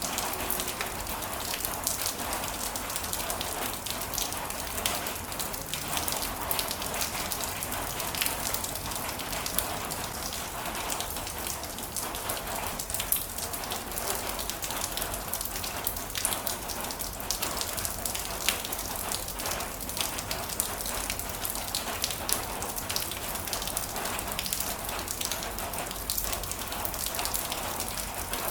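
Heavy rain falling steadily, a dense hiss with many distinct, sharp drop hits.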